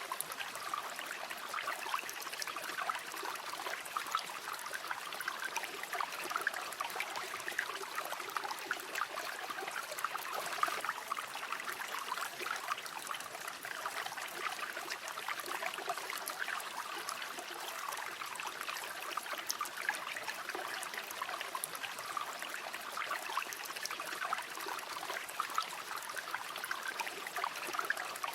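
Steady flow of a shallow river over stones, a dense babble of small splashes and trickles.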